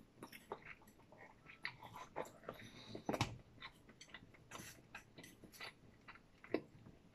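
A person quietly chewing food, with faint irregular clicks of eating utensils against a bowl and container. The loudest click comes about three seconds in.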